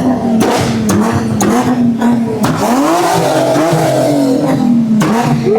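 A loud car engine revving, its pitch wavering up and down, with a sharp climb to higher revs about halfway through.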